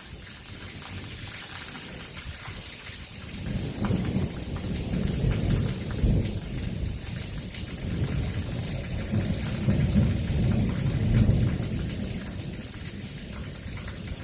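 Thunder rolling over heavy rain: a deep rumble builds about three seconds in, swells several times, then eases off near the end, under a steady hiss of rain.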